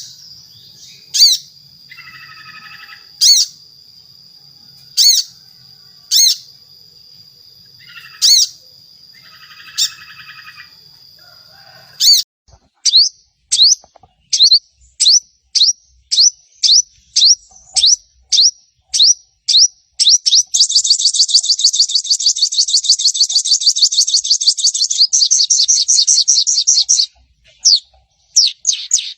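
Brown-throated sunbird (sogon) calling: sharp, high down-slurred notes every second or two with buzzy lower notes between, over a faint steady high tone. About halfway through the notes come faster, about two a second, then break into a rapid continuous chattering trill for several seconds, which starts again near the end.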